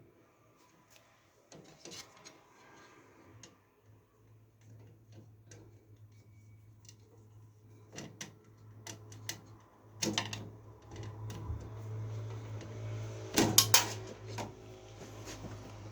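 Clicks, taps and knocks of hard computer parts being handled and fitted during a PC build, irregular, with a sharper knock about ten seconds in and a louder cluster of clattering knocks near the end. A faint low steady hum runs underneath.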